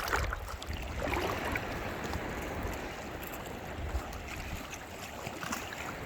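Surf washing in the shallows, with wind rumbling on the microphone.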